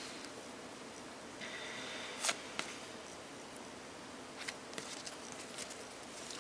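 Faint handling of a trading-card box and packs: a short scrape about a second and a half in, then a few light clicks and taps.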